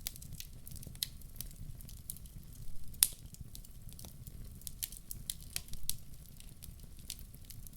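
Wood fire in a fireplace crackling, with frequent irregular pops and one sharp, louder crack about three seconds in, over a steady low rumble.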